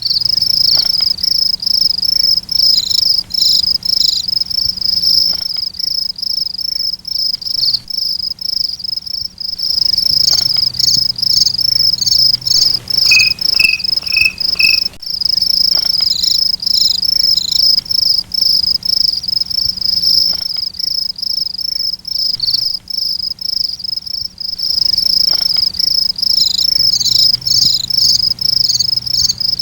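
Cricket chirping in a continuous, rapid, high-pitched pulsing trill.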